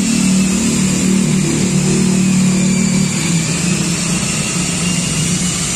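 A car engine idling steadily: an even, low hum with no change in speed.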